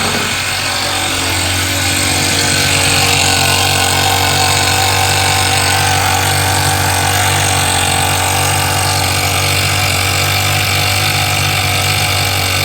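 Toyan FS-S100 single-cylinder four-stroke model engine running at a steady speed, an even, continuous drone that gets slightly louder about a second in.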